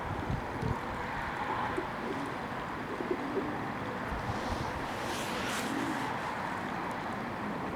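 Fantail doves cooing softly, several low coos over a steady background noise.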